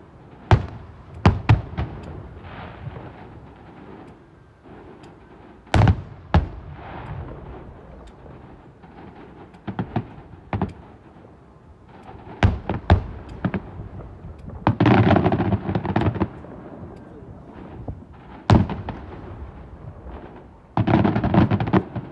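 Fireworks shells bursting overhead: single sharp bangs every second or few seconds. Twice, about fifteen seconds in and again near the end, a dense run of rapid crackling bursts.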